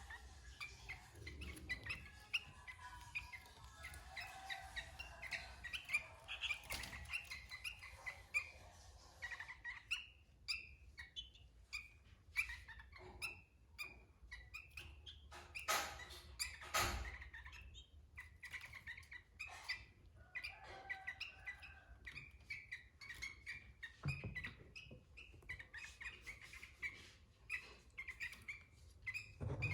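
Sooty-headed bulbul (kutilang) singing busily, short chirping notes repeated over and over, with scattered sharp clicks, the loudest about halfway through.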